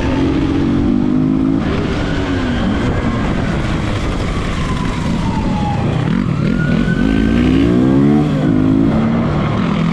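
Motorcycle engine running hard during a chase, revving up in pitch about two-thirds of the way through, with a police siren wailing and steady road and wind noise underneath.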